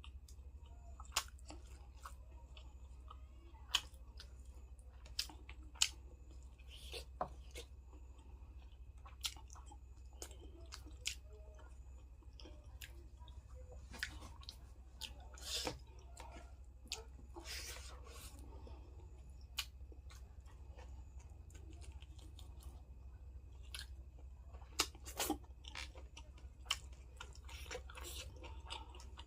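A person chewing and biting food close to the microphone: scattered sharp mouth clicks and crunches at irregular intervals, over a steady low hum.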